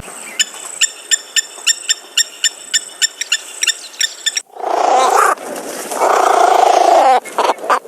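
Bird calls: a run of sharp, evenly spaced chirps, about three a second, then from about halfway in loud, harsh rasping screeches that break into a stutter near the end.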